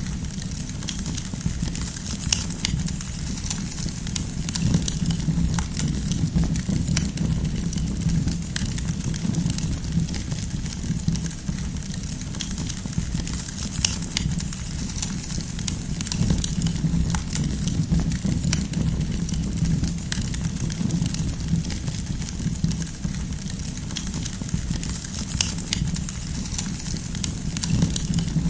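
Wood campfire burning, with frequent scattered sharp crackles and pops of the firewood over a steady low rumble.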